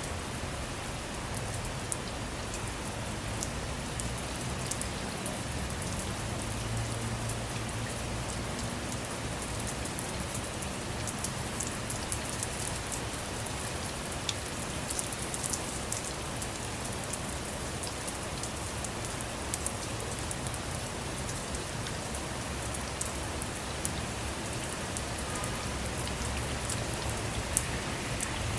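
Steady rain falling on and around a car, heard from inside, with scattered sharper drop ticks and a low rumble underneath.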